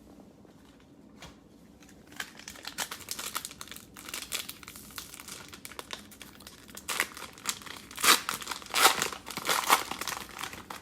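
Cellophane wrapper of a trading-card cello pack crinkling and tearing as it is opened by hand, starting about two seconds in and loudest near the end.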